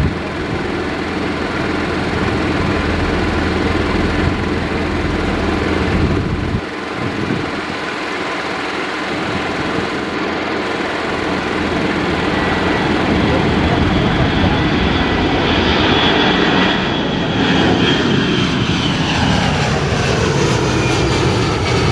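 Jet airliner's engines running loud and steady. In the last several seconds a whine falls in pitch as the aircraft passes.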